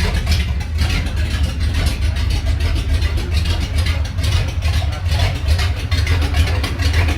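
Ford flathead V8 engine idling steadily.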